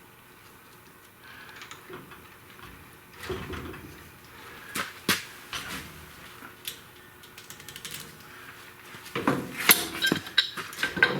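Metal wheel-hub hardware clinking and knocking as it is worked onto an axle shaft: a few scattered knocks, then a quick flurry of clinks near the end.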